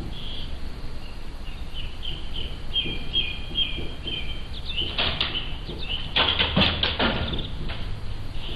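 Barn owls calling: a run of short high calls repeating for several seconds, then several harsh, noisy screeching calls, the loudest between about six and seven seconds in.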